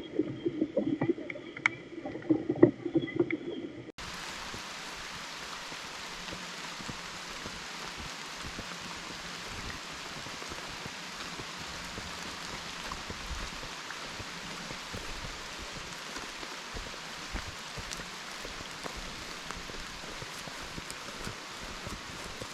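Steady rain falling in woodland: an even hiss of drops with faint scattered patters. The first few seconds hold a duller recording with a low hum and sharp taps that cuts off suddenly.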